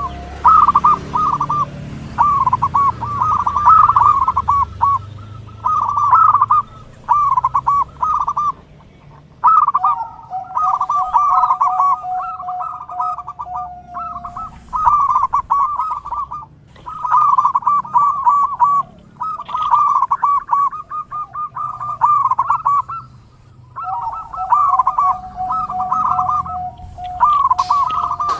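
Zebra dove (perkutut) song: repeated phrases of rapid, trilled cooing notes in runs of a second or several, with short pauses between, and at times a steady lower note held beneath them.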